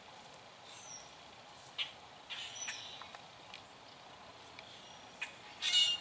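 Small birds chirping: scattered short, high calls, the loudest and longest just before the end, over steady outdoor background noise.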